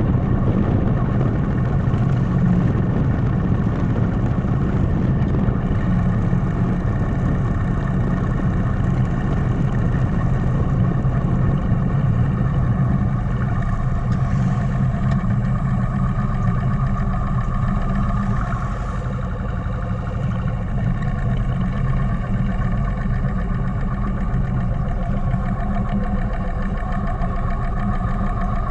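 Motorcycle engine running at a steady speed while riding, a constant hum with a low, even note.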